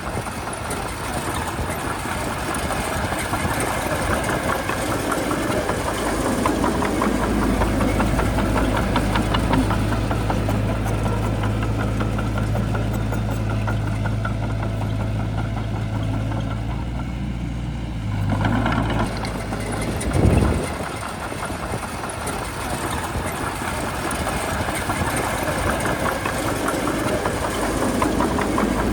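Bulldozer's diesel engine running steadily, its note shifting about eighteen seconds in, with a short louder noise a couple of seconds later.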